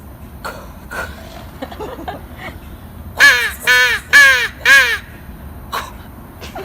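Hand-held crow call blown by a beginner practising: four loud caws in quick succession about three seconds in, each rising and falling in pitch.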